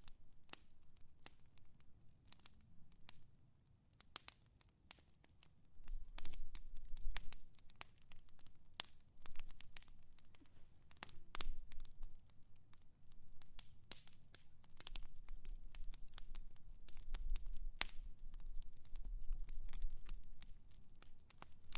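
Fire crackling, with irregular sharp pops and snaps and a low rumble that comes and goes from about six seconds in.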